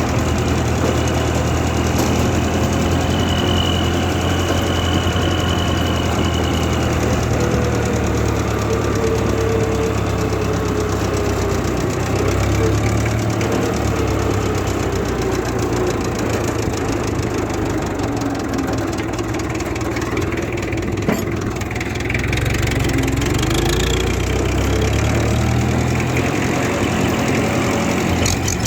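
International Harvester 444 tractor engine running steadily, its speed shifting slightly a couple of times.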